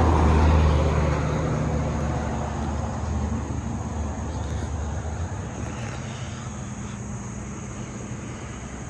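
A vehicle's engine and road noise passing, loudest at first and fading steadily as it moves away.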